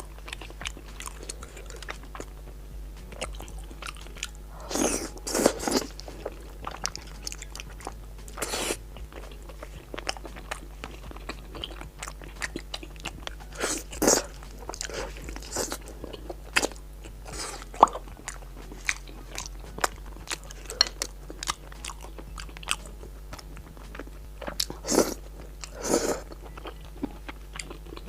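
Mukbang eating sounds: chewing and biting with many small wet mouth clicks, and a handful of louder short noisy bursts scattered through.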